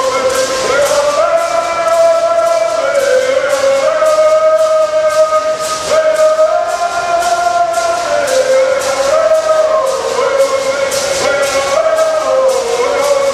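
Bird singers singing a Southern California bird song together in unison, the melody stepping up and down, over gourd rattles shaken in a steady beat about three times a second.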